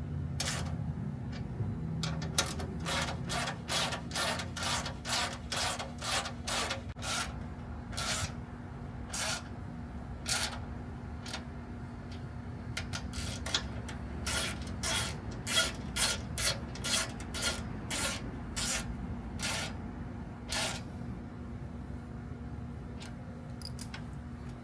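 Hand tool work in the engine bay: runs of short rasping strokes, about two a second, in two long bursts with a pause between, over a steady low hum.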